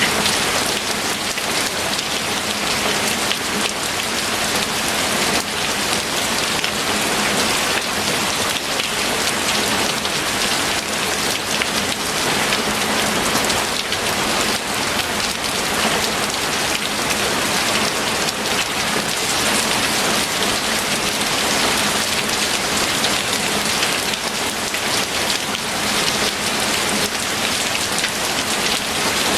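Steady heavy rain falling on a surface, a dense even patter of drops.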